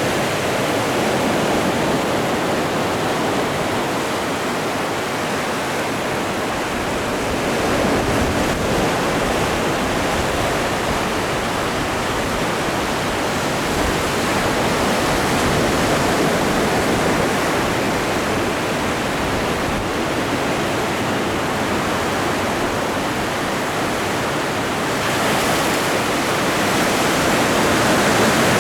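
Atlantic Ocean waves washing onto the shore: a steady rushing surf that swells gently every several seconds.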